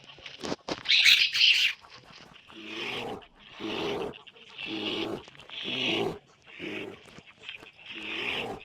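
An animal calling over and over, about once a second, with a louder, shrill call about a second in.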